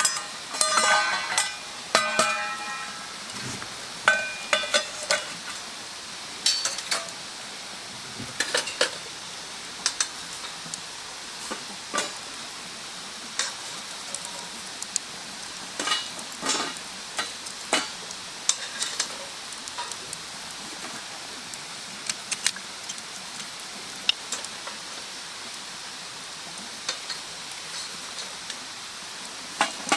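Wood fire crackling: irregular sharp pops and snaps over a steady hiss. A few ringing metallic clinks in the first few seconds.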